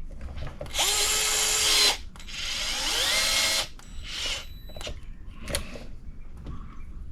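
Small cordless electric driver run in two short bursts of about a second and a second and a half, the second spinning up more gradually, followed by a few light clicks of small parts being handled.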